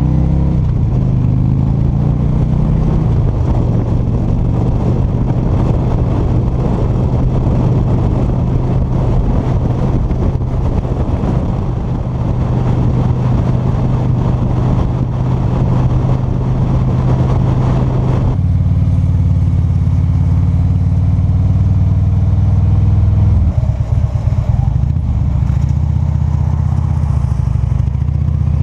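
Motorcycle engine running while riding, its pitch rising over the first few seconds and then holding steady. The sound changes abruptly about 18 seconds in to a lower, steadier engine note.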